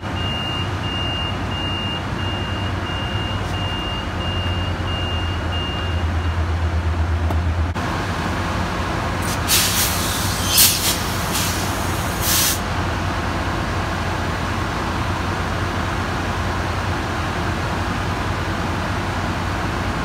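Metrolink passenger train at the platform: the door warning beeps repeat evenly for about six seconds over a low hum. Then the train with its F125 diesel locomotive departs in a steady rumble, with several sharp hisses of air a few seconds after it starts moving.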